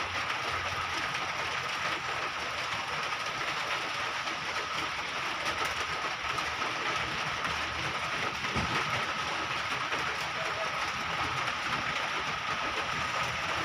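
Steady machine noise, an even rushing sound with a constant thin whine and a low hum underneath.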